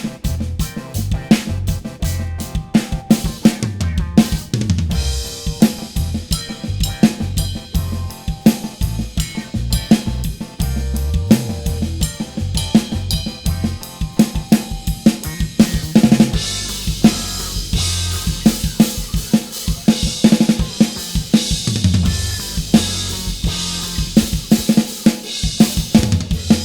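Acoustic drum kit, close-miked with a Phenyx Pro PTD-10 drum mic set, played in a steady groove along to a backing track with a bass line: kick, snare and hi-hat. From about sixteen seconds in, the cymbals wash louder over the beat.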